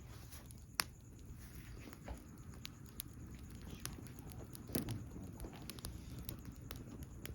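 Wood campfire crackling: irregular sharp pops and snaps, the loudest a little under a second in, over a low steady rumble.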